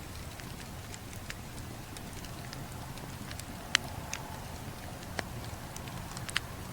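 Campfire crackling over a low steady rumble, with scattered sharp pops from the burning wood, the loudest about four seconds in.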